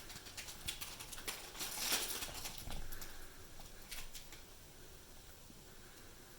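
Cats licking each other's fur: a run of small wet clicks and rustling, busiest about two seconds in and dying away after about four seconds.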